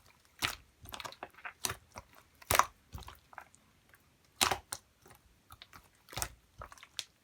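Pearl marbling slime being squished and pressed by hand, giving off irregular sticky clicks and pops, three of them louder than the rest.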